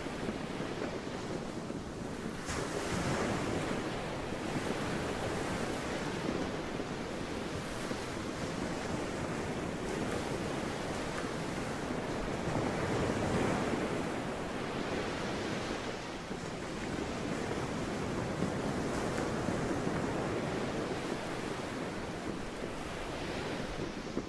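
Sea waves washing in, a steady rushing noise that swells and eases every several seconds.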